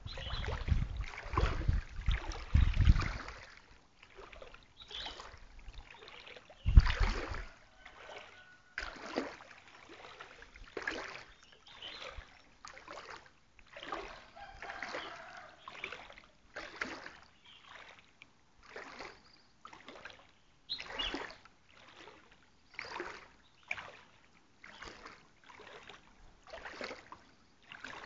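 Floodwater splashing in regular strokes, about one a second. There are a few heavier low bumps in the first three seconds and another about seven seconds in.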